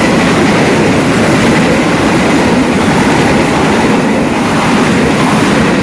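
Long-distance passenger train passing close by at speed, with a loud, steady noise of wheels running over the rails.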